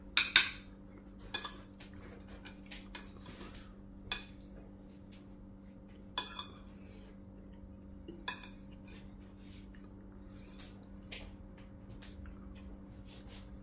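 Cutlery clinking against plates as food is eaten: a scattered handful of sharp clinks, the loudest in the first second.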